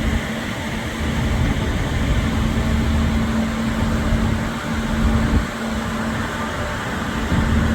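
Car ferry's engines and machinery running while it manoeuvres to dock: a steady mechanical drone with a constant hum and a low rumble that swells and eases.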